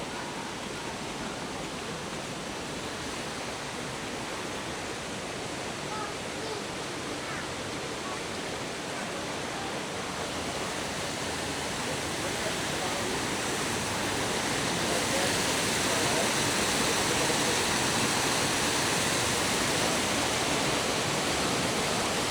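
Rushing water of the Vltava River, a steady noise that grows louder from about halfway through and then holds.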